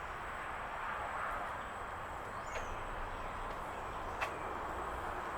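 Steady outdoor background hiss with a thin steady high tone, a single short falling bird chirp about halfway through and one sharp click about four seconds in.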